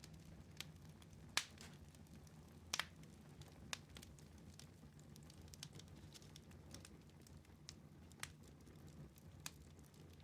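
Wood fire in a fireplace crackling quietly, with sharp pops of burning wood at irregular intervals, a few louder ones standing out, over a faint steady low hum.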